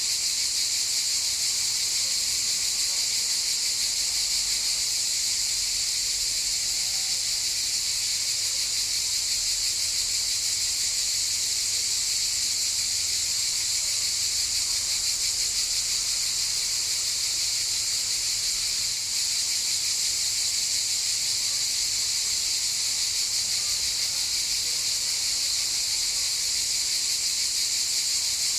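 Cicadas chorusing: a steady, unbroken high-pitched buzz with a faint rapid pulse.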